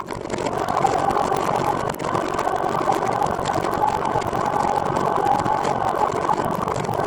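Steady running noise of a trike on the move, with a brief dip about two seconds in.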